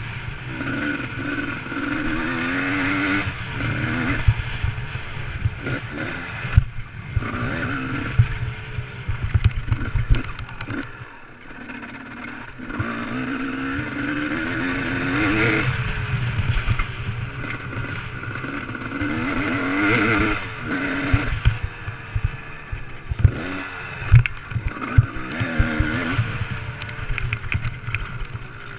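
Motocross bike engine revving up and falling back over and over as it is ridden, with frequent sharp thumps and clatter.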